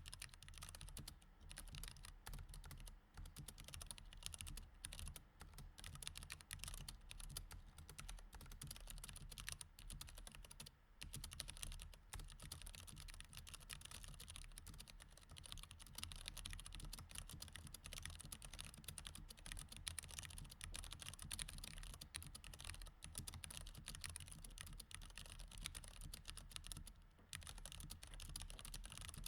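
Continuous fast typing on a mechanical keyboard with Cherry MX Red switches, soft and quiet, the keystrokes clattering in quick runs broken by a few brief pauses.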